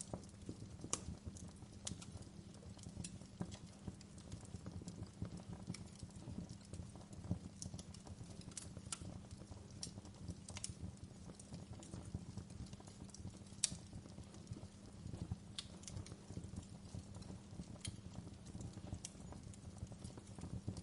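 Fireplace fire crackling: irregular sharp pops and snaps, one or two a second, over a low steady rumble of burning.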